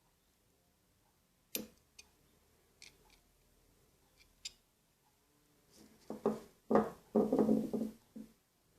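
A few separate sharp clicks, then a louder stretch of clattering and rubbing near the end: small parts of a Shimano Sahara 2500FD spinning reel being handled.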